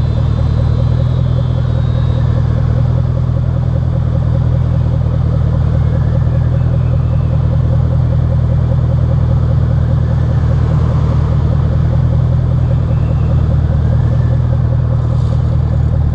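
Ford Mustang's 4.6-litre V8 exhaust, running steadily at an even engine speed with no revving.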